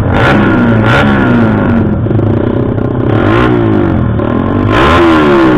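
Motorcycle engine being revved in repeated throttle blips during tuning, its pitch sweeping up and falling back about four times over a steady idle.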